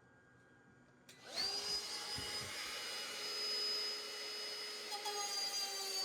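An electric motor spins up about a second in, then runs steadily with a high whine and a noisy rush.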